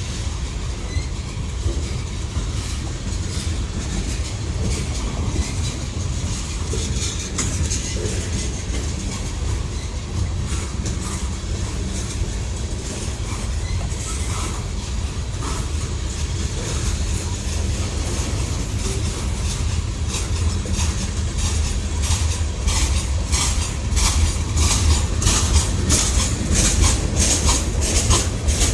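Norfolk Southern freight train's cars rolling past: a steady low rumble with wheels clicking over the rail joints. The clicks grow louder and more frequent over the last several seconds.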